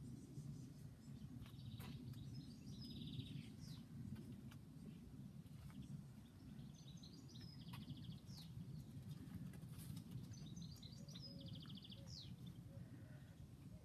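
A songbird singing three short phrases of quick high notes ending in trills, about four seconds apart, over a low steady background rumble.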